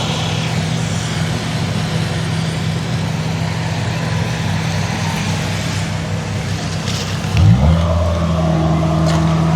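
Rice combine harvester's engine running steadily as it unloads grain through its boom. About three-quarters of the way through it revs up quickly and holds at the higher speed.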